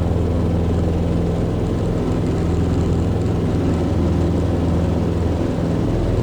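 Cessna 150's four-cylinder Continental O-200 engine and propeller running steadily, heard inside the cabin.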